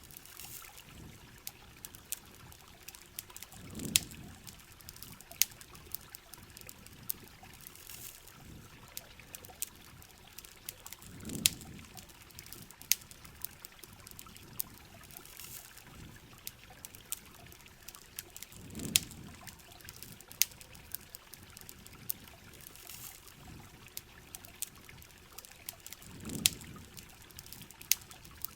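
Rain and trickling water under many sharp campfire crackles, with a soft low swell about every seven and a half seconds, as in a looped recording.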